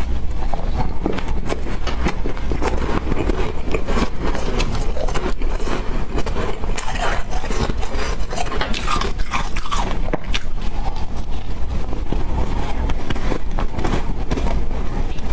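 Close-up biting and chewing of ice, a dense run of crunches and crackles.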